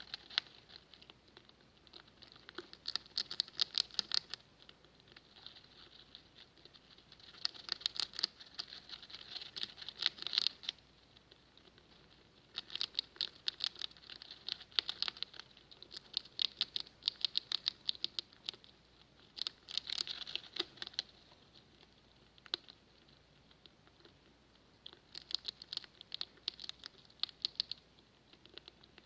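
Pet rats making rapid crackling clicks, like a fire crackling, in repeated bursts of one to a few seconds with quieter gaps between.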